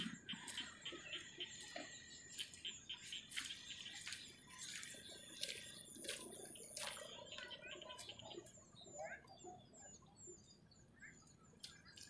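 Small birds chirping and twittering faintly, with a few scattered sharp clicks.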